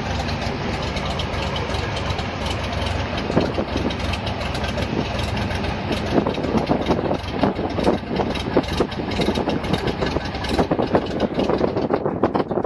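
Cessna 172's piston engine and propeller droning steadily, with irregular gusty rushing noise from about three seconds in.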